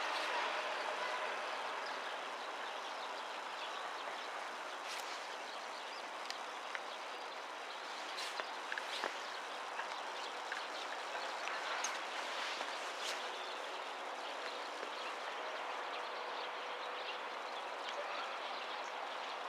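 Steady railway-side background noise, with the sound of a train dying away over the first couple of seconds and a few scattered faint clicks and ticks.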